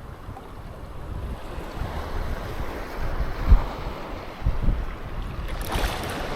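Surf washing onto a sandy beach, with wind buffeting the microphone in low gusts. The wash swells about two seconds in, and a louder wave comes in near the end.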